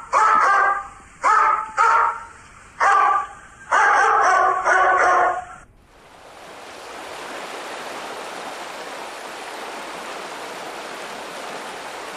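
A dog barking repeatedly, about six or seven barks over the first half. About halfway through, the barking stops abruptly and a steady rushing noise, like wind or running water, takes over.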